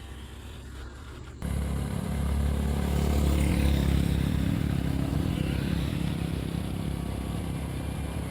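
A vehicle engine running close by, low and steady. It comes in suddenly about a second and a half in and slowly fades toward the end.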